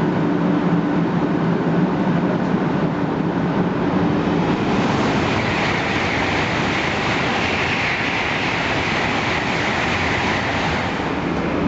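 Shinkansen train running at speed: a steady rush of wheel and air noise, with a hiss that swells in the middle.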